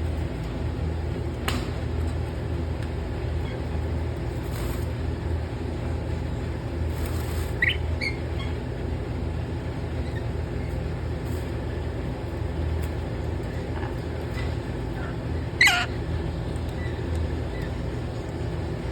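Lory parrot giving two short, sharp squawks, the second and louder one near the end, over a steady low hum.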